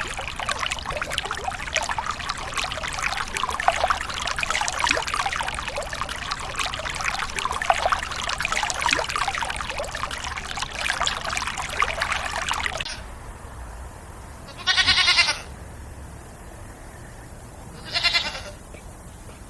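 Dense crackling noise for about the first thirteen seconds, then a cut to a goat bleating twice, two short bleats about three seconds apart.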